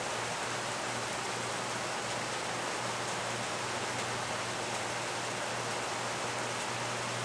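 Steady low electrical hum from a transformer at a downed, burning power line, under a constant hiss.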